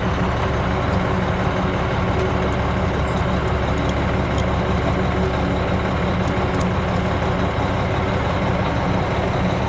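Heavy truck engine idling steadily, with a few faint clicks near the middle.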